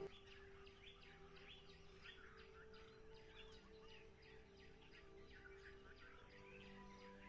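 A chorus of small birds chirping, many short rapid calls overlapping, several a second, with a faint steady low tone underneath.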